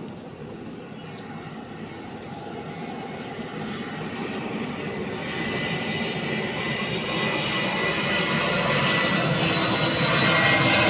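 Airplane approaching overhead, its engine noise growing steadily louder, with a thin high whine coming in about halfway through.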